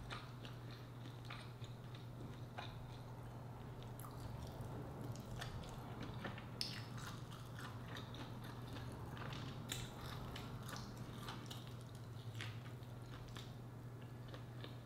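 Chewing with soft, scattered mouth smacks and clicks as a person eats seafood and rice by hand, over a steady low hum.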